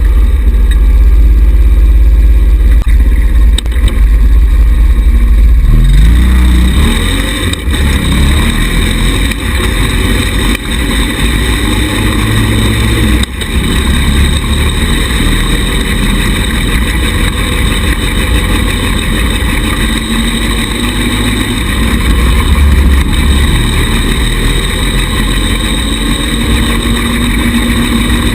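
Engine of a 110cc buggy running as it drives, its pitch falling and rising with the throttle, over a heavy low rumble.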